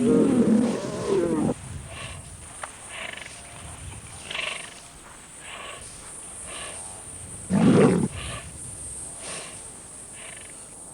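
Lions growling and snarling, loud for the first second and a half, then breaking off abruptly. Fainter short sounds follow, and a second loud, brief growl comes about seven and a half seconds in.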